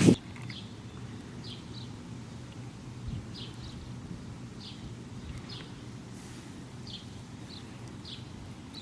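A small bird chirping, short high chirps repeating every half second to a second, over a steady low background hum; a brief louder rustle comes right at the start.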